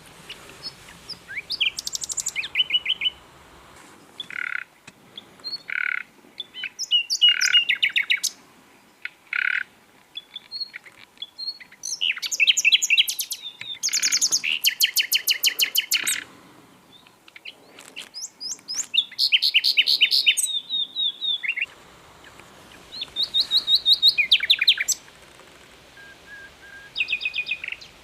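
Common nightingale singing: separate phrases of fast repeated notes and rattling trills, broken by short pauses, with a run of single, evenly spaced whistled notes in the first third.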